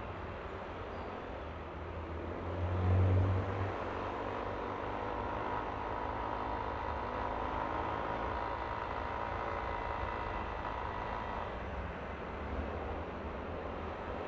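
Yamaha Aerox V3 scooter's 155 cc single-cylinder engine running under way, over wind and road rumble. There is a louder low rumble about three seconds in, then a steady engine note from about four seconds in until near the end.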